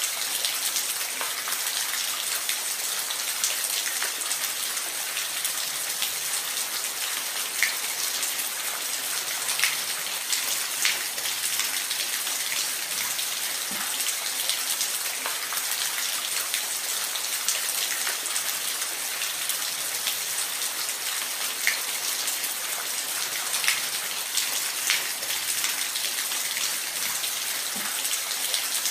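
Steady rain with the patter of individual drops hitting a surface, as a continuous hiss with scattered sharper drop ticks.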